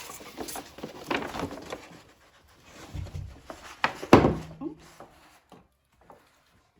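Handling noises from a parchment Torah scroll being moved and turned over: scattered rubbing and rustling, with a sharp knock against wood about four seconds in, the loudest sound, and quieter touches near the end.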